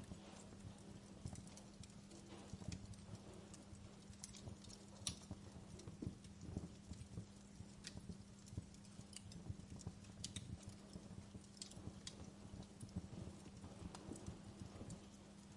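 Wood fire crackling: irregular sharp pops and snaps over a low rumble, with a faint steady low hum underneath.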